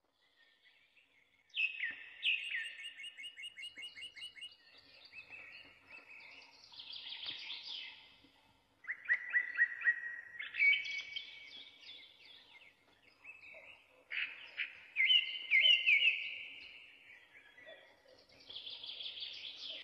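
Songbirds singing: phrases of quick repeated chirps and trilled notes, starting about one and a half seconds in and coming back in several bouts.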